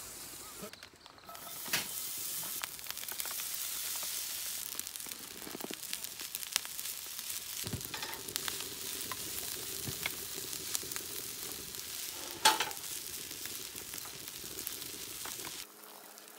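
Food sizzling as it is stir-fried in a steel wok over a rocket stove's open flame, with the spatula clicking and scraping against the pan and one sharp knock about twelve seconds in. The sizzling drops away near the end.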